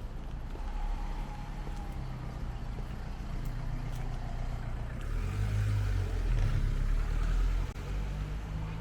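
Street traffic: a motor vehicle's engine rumbling, growing louder about five seconds in as it passes close, then dropping off suddenly shortly before the end.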